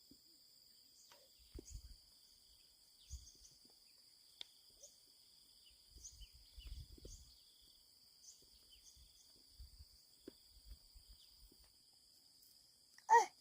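Steady high-pitched insect chirring with many short, high chirps over it and a few faint low thumps; a brief louder sound comes just before the end.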